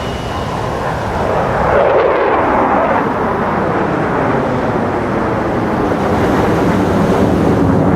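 F-16 jet flying past, its engine sound swelling about two seconds in and sweeping down in pitch as it goes by, with wind buffeting the microphone.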